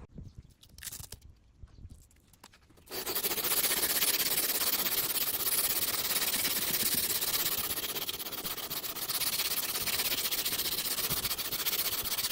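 A loud steady hiss starts suddenly about three seconds in and holds until just before the end, after a few faint knocks.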